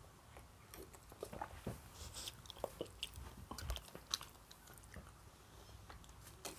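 Faint close-miked chewing and wet mouth clicks, with sips of coffee from a paper cup.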